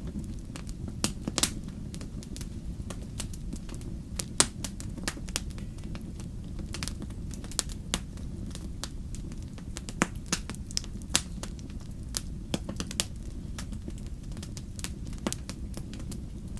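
Wood fire in a fireplace crackling, with irregular sharp pops and snaps over a steady low rumble of the flames; the loudest pop is about four and a half seconds in.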